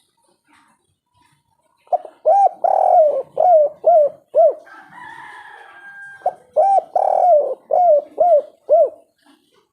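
Spotted dove (tekukur) cooing its 'kuk 3' song: two phrases, each a run of about six short, arched coos, the second beginning about six seconds in. A fainter steady tone sounds between the phrases.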